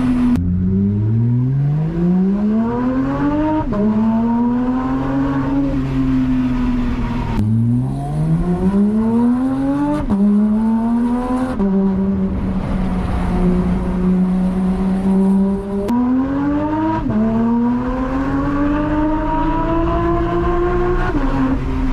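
Porsche 911 GT3's naturally aspirated flat-six pulling hard several times, its pitch climbing steeply and then dropping at each gear change, with stretches of steady running between the pulls.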